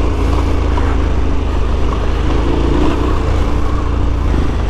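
KTM 1290 Super Adventure S V-twin motorcycle engine running steadily while riding off-road, a continuous low rumble with no marked revving.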